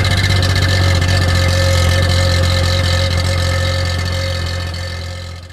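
Suzuki Carry mini truck's engine running at a steady speed with a constant low hum; it cuts off abruptly at the end.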